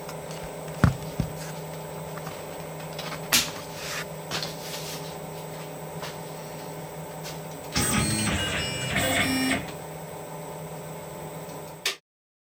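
CNC machine starting its program to face an aluminium plate: a steady machine hum with a few sharp clicks, a louder stretch with several whining tones about eight seconds in, then the sound cuts off suddenly near the end.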